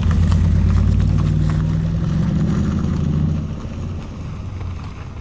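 A vehicle engine running loudly with a deep, low pitched sound. Its pitch lifts slightly about two seconds in, and it fades off after about three and a half seconds.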